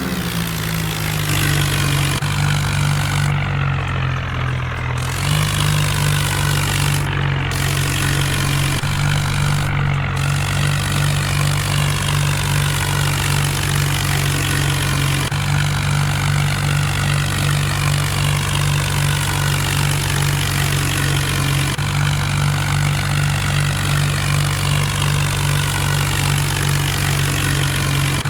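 Mahindra Arjun tractor's diesel engine running steadily, picking up speed in the first second and then holding an even pitch.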